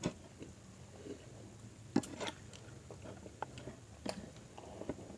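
Close-miked eating: chewing and biting food, with scattered short wet clicks and smacks; the sharpest comes about two seconds in.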